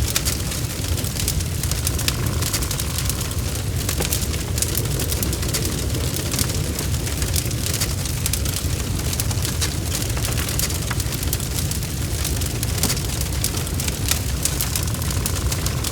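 Wood fire burning in a fireplace, crackling with many small pops over a steady low rumble.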